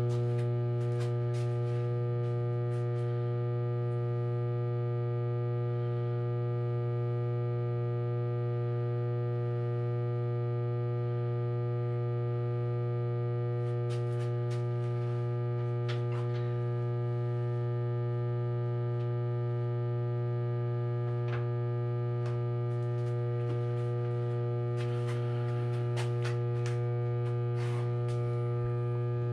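Steady electrical hum, unchanging throughout, with faint scattered clicks now and then.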